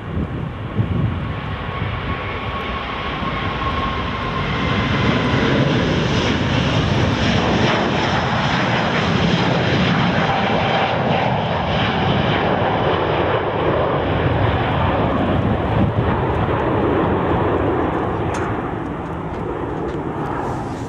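Qatar Airways Airbus A350-900's Rolls-Royce Trent XWB engines at takeoff thrust: loud jet noise that builds about four seconds in, holds through the middle and eases near the end, with a faint whine at the start.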